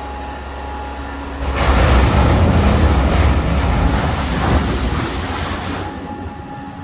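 Garbage truck engine running steadily, with a loud rushing noise from the truck starting about a second and a half in, lasting about four seconds and then fading out.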